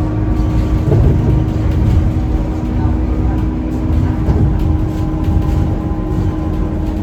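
Scania K230UB city bus's five-cylinder diesel engine and drivetrain running under way, a steady low engine note with a steady higher tone over it and small swells in loudness.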